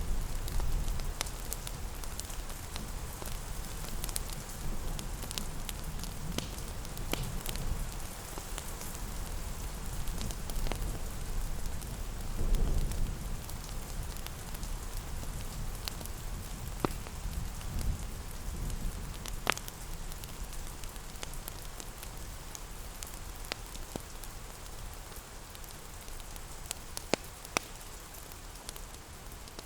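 Steady rain pattering mixed with a crackling fireplace: an even hiss of rain with scattered sharp pops and crackles from the fire, and a low rumble that swells briefly about twelve seconds in.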